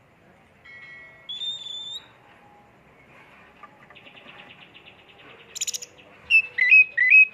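Oriental magpie-robin singing: a few clear whistled notes, then a buzzy rattling trill, then loud, quick whistled phrases with sliding notes near the end.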